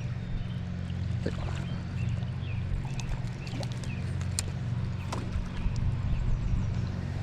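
A steady low motor hum with faint scattered clicks and chirps above it.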